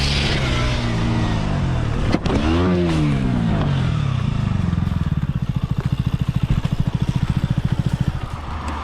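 A motorcycle engine running, with a vehicle passing about two and a half seconds in, its pitch rising then falling. From about five seconds in, the engine settles into a steady, rapid throb.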